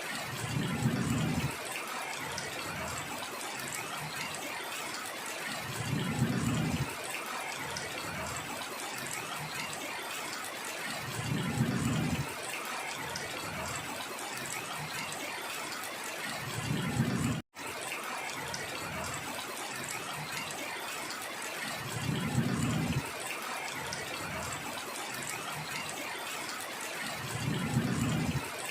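Steady heavy rain, with a low surge about a second long coming back regularly about every five seconds. The sound cuts out for an instant a little past halfway.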